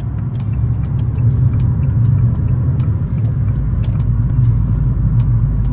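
Car engine and road noise heard from inside the cabin while driving at a steady pace: a steady low drone, with faint sharp ticks every half second or so.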